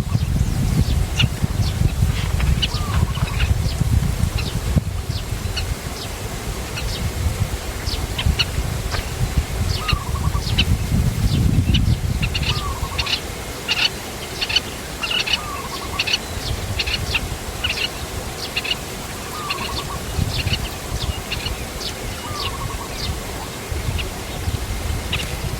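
Small birds chirping: many quick high chirps that grow busier about halfway through, with a lower, curling call repeated every two to three seconds, over a low rumble.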